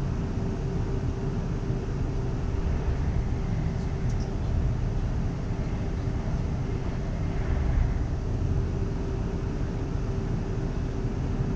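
Interior noise of a Class 360/2 electric train running along the line: a steady low rumble of wheels on track with a constant steady hum.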